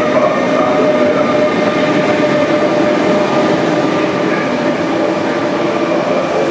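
ÖBB Railjet passenger train rolling along the platform: a steady rumble of wheels on rails with a steady tone over it, the train worked by a class 1116 Taurus electric locomotive.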